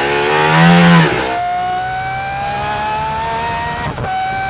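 Aston Martin Valkyrie's naturally aspirated 6.5-litre V12 accelerating hard. Its pitch rises, drops sharply at an upshift a little over a second in, then climbs steadily through the next gear, with another quick shift near the end.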